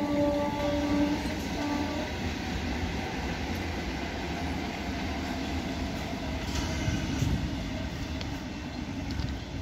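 Indian Railways EMU local train passing on the tracks: a steady rumble of wheels on rail. A single held horn note sounds at the start and cuts off about a second in, trailing faintly to about two seconds.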